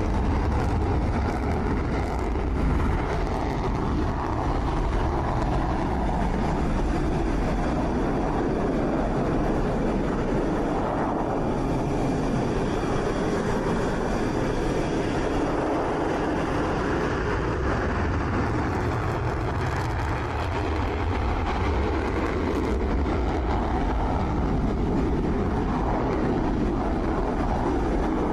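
Twin-turbofan jet engines of Dassault Rafale fighters running, a steady loud roar that is heaviest in the lows and swells slowly.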